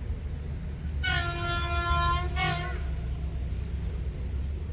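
Diesel locomotive horn sounding one blast of nearly two seconds, starting about a second in, over the steady low rumble of the locomotive's engine.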